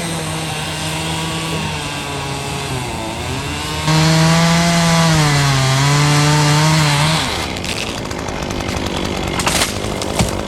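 Two-stroke chainsaw at full throttle cutting into very hard Australian pine (ironwood), its pitch sagging under load and picking back up. It gets louder about four seconds in, then drops back after about seven seconds. A couple of sharp knocks come near the end.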